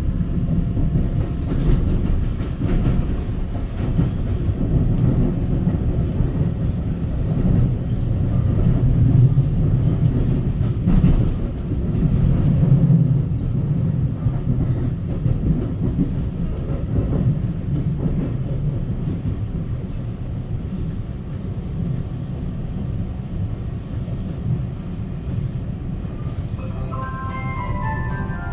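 Taiwan Railway EMU900 electric multiple unit running on the line, a steady low rumble with scattered wheel clicks. Near the end a short melody of stepped chime tones begins.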